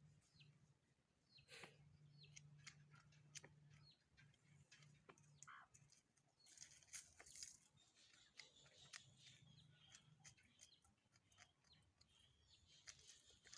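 Near silence, with a faint low hum and scattered faint clicks and brief high chirps.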